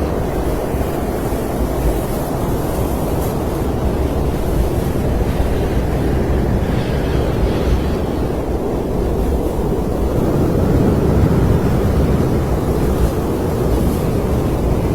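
Snowstorm wind blowing steadily as a deep rushing noise, swelling a little toward the end.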